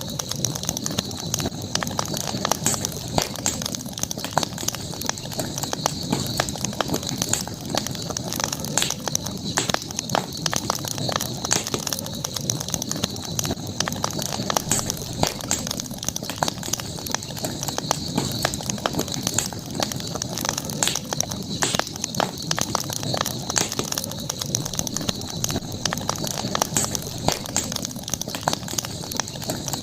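Campfire crackling: wood burning with frequent small pops and snaps, over a steady high-pitched whine in the background.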